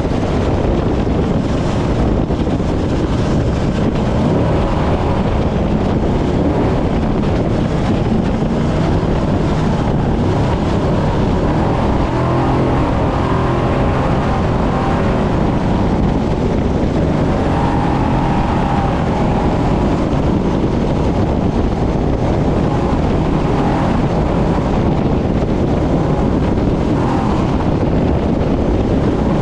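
Class-6100 trophy truck driven at speed off-road, its engine noise merged with heavy wind buffeting on the microphone into a loud, steady din.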